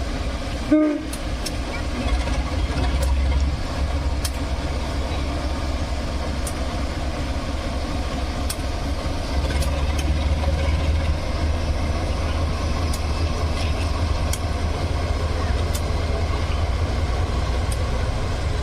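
Moving passenger train: a steady low rumble with faint scattered ticks over it. A short, sharp pitched sound comes about a second in.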